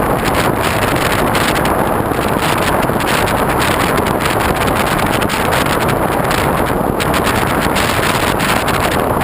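Airflow rushing over a GoPro mounted on the wing of a foam RC airplane in flight: a loud, steady hiss of wind on the microphone.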